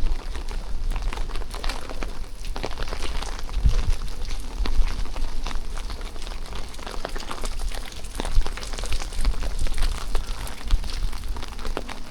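Steady rain pattering in a dense crackle of drops, with wind rumbling on the microphone.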